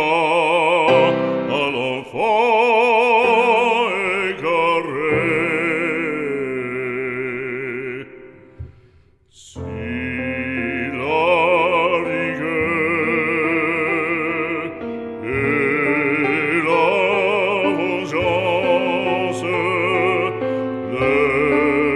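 Operatic solo singing of a French sacred song, held notes with wide vibrato over instrumental accompaniment. The music falls away briefly about the middle, then resumes.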